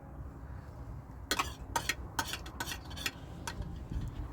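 Utensil clinking against a dish, about eight quick sharp clinks over two seconds, with a low steady rumble underneath.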